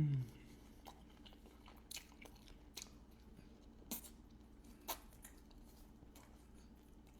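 Close-miked chewing of a Parmesan-crusted lamb chop: faint mouth sounds with a sharp click or crunch about once a second, after a brief voice sound right at the start.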